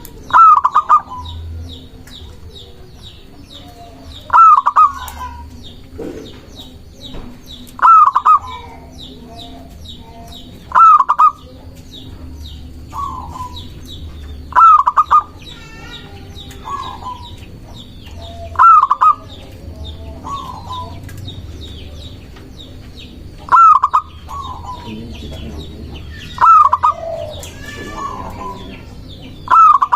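Zebra dove (perkutut) cooing: short, loud phrases of quick coos about every three to four seconds, about nine in all, with softer coos in between.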